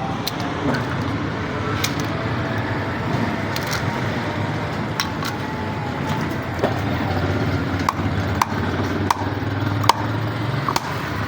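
Sharp clicks and knocks, coming about once a second in the later part, over a steady low hum: hand work on a water pump's fan.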